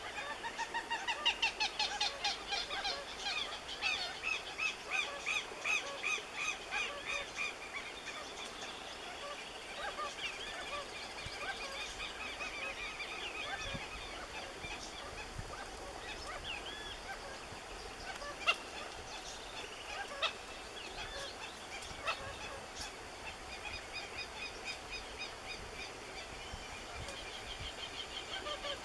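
Saffron finch (canário-da-terra) singing: fast runs of repeated chirping notes, loudest in the first several seconds, then softer, scattered twittering. A few sharp clicks come in the second half.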